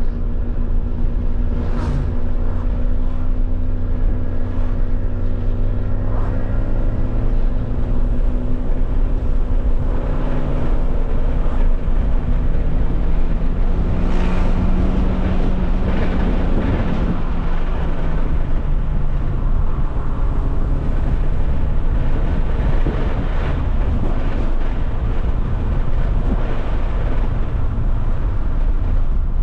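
Alfa Romeo 156 1.8 Twin Spark four-cylinder engine running under way, with road and wind noise. The engine note holds steady at first, then rises and falls from about ten seconds in as the revs change.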